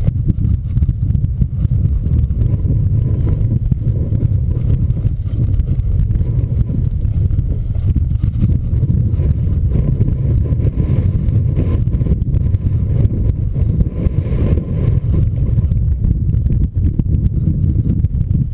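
Strong wind buffeting the microphone: a loud, steady low rush with no let-up.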